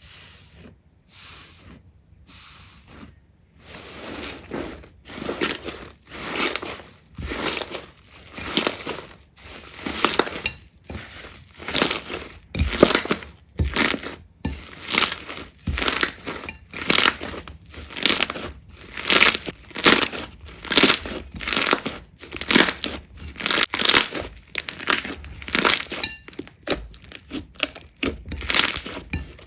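Slime being squeezed and pressed by hand: a run of crackly, noisy squishes, a little faster than one a second. They are faint at first and grow loud after a few seconds.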